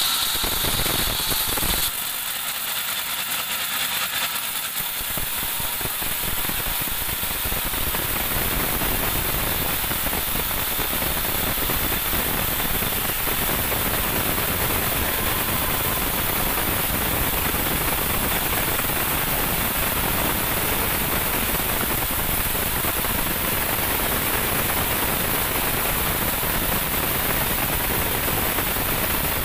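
Band sawmill running through a teak log, a loud, steady mechanical noise that dips about two seconds in, builds back over the next few seconds, then holds even.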